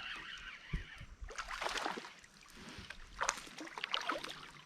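Water splashing and sloshing at the side of a kayak, in two short bouts of sharp splashes and knocks, as a hooked spotted bass is brought in.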